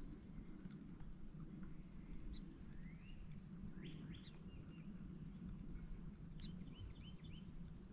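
Wild birds calling: a few rising whistled notes around three and four seconds in, then a quick run of short chirps about six to seven seconds in, over a low steady background rumble.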